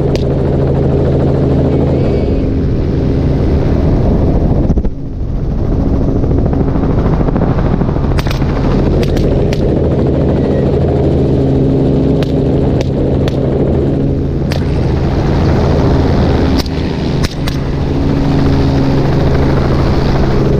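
Helicopter running steadily in flight, with a dozen or so rifle shots fired from it, singly and in quick pairs, mostly in the second half.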